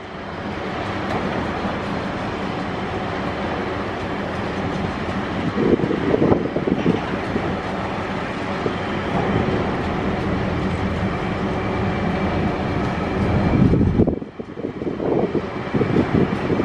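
Container wagons of a freight train rolling past close by: a steady rumble of steel wheels on the rails that swells a few times.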